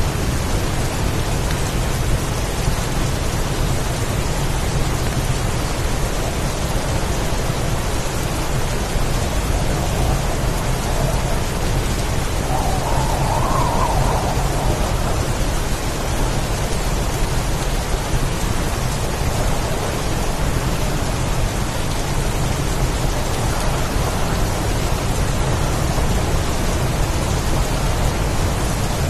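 Steady heavy rainstorm: an even hiss of rain with a constant low rumble underneath, no single events standing out.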